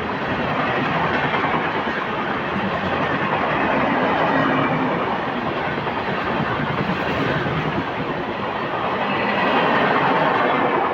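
Brahmaputra Mail express passenger train running on the track: a steady rumble and clatter of wheels on the rails that swells and eases every few seconds.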